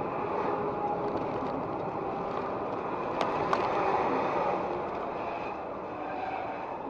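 A moving vehicle's steady road and engine noise, with two faint clicks a little over three seconds in.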